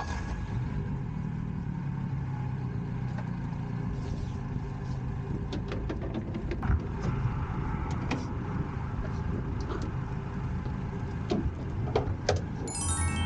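An engine running steadily with a low hum, with a few scattered clicks and knocks over it.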